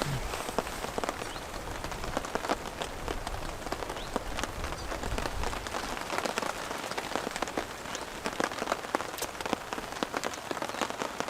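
Light rain falling, with many separate drops tapping sharply at irregular moments over a steady patter.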